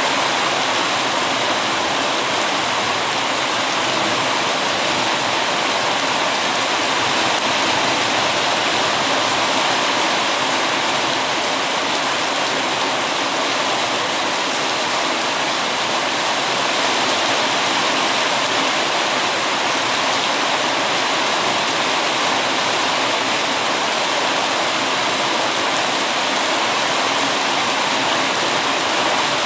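Steady heavy rain: a constant, even hiss of falling water.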